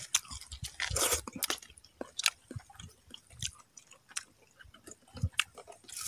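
A man chewing food with his mouth close to the microphone: irregular clicks and smacks of the mouth as he eats.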